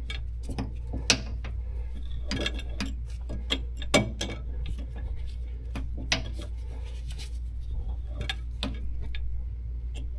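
Irregular metallic clicks and clinks as greased steel control-linkage parts are handled and fitted back together by hand, with a few sharper knocks, over a steady low hum.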